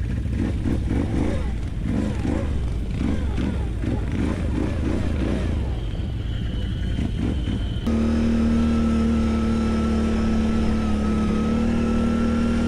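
ATV engines running and revving unevenly. About eight seconds in, the sound changes abruptly to one steady engine note with a steady whine above it.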